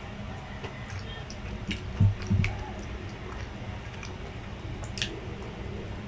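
Close-miked chewing of grilled street food, with small wet mouth clicks scattered throughout and two low thumps about two seconds in, over a steady low hum.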